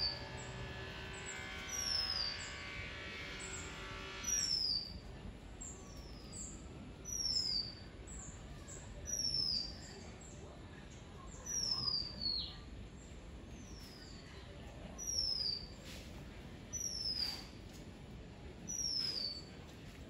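Oriental magpie robin calling: a thin, high whistle that falls in pitch, repeated every second or two with fainter answering calls between. A music track ends about four seconds in.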